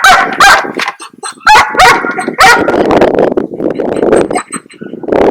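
A dog barking: about five sharp barks in the first two and a half seconds, followed by a rougher, noisier stretch.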